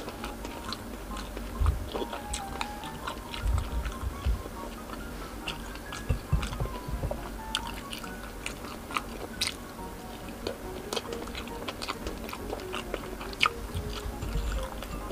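Close-up chewing of squid balls, with many sharp wet mouth clicks and smacks, over soft background music with a slow stepping melody.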